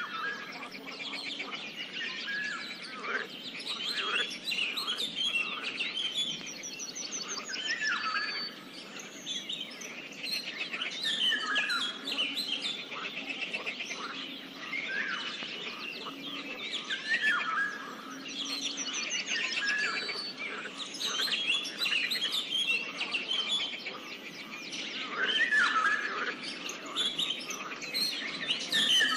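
Many birds chirping and calling at once in a dense, overlapping chorus without a break, with occasional short low frog croaks underneath.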